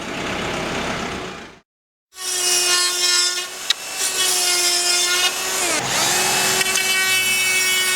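Power tool running with a steady high whine full of overtones; its pitch dips briefly about six seconds in and then recovers. Before it, a short hiss fades out into a moment of silence.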